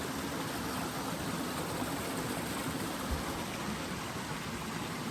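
Steady rush of Falls Brook's water running over rocks, with a soft low bump about three seconds in.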